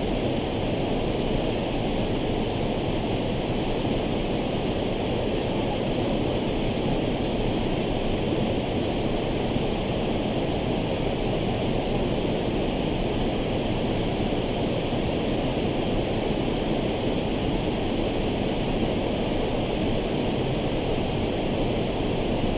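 Waterfall pouring with full force: a steady, unbroken rush of falling water at an even level.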